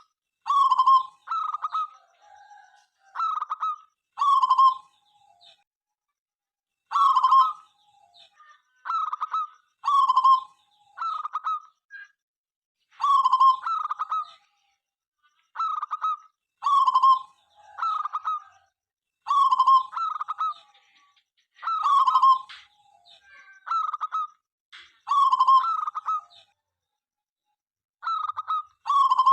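Zebra dove (perkutut) cooing: short coo phrases of a few quick notes repeat every second or two, with a longer pause about a fifth of the way in and again near the end.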